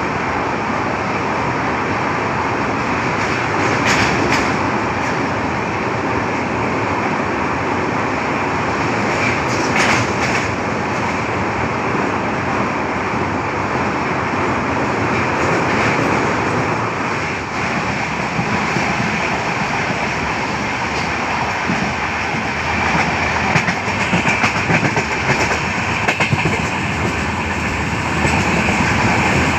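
Passenger train running, heard from inside a coach: a steady rumble and rush of air, with a few sharp clacks from the wheels.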